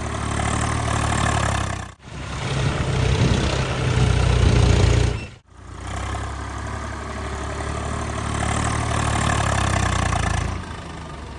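Tractor diesel engine running with a steady low drone. The sound cuts out sharply about two seconds in and again about five and a half seconds in, and the middle stretch is louder.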